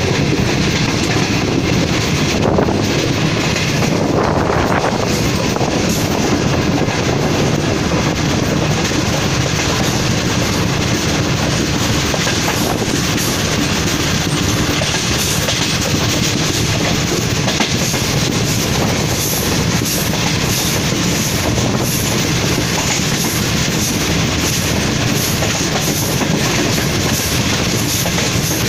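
Sir Syed Express passenger train running steadily, heard from aboard: a continuous rumble of the coaches with the wheels clicking regularly over rail joints, the clicks plainer in the second half.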